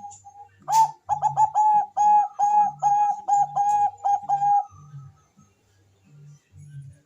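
Zebra dove (Thai-bred 'Bangkok' perkutut) cooing: a fast string of short, even coo notes, about three or four a second. It starts about a second in and stops after about four seconds.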